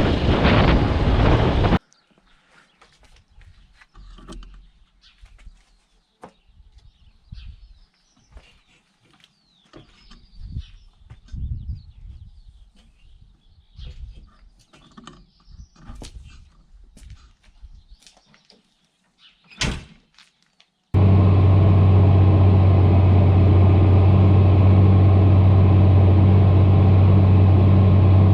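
Wind buffeting the microphone briefly at the start, then a quiet stretch of birds chirping with scattered soft knocks and one sharp click. After that comes a John Deere tractor engine running at a steady drone with a strong low hum.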